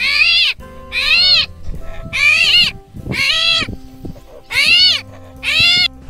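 An animal's high, meow-like call repeated six times, about once a second, each call rising then falling in pitch.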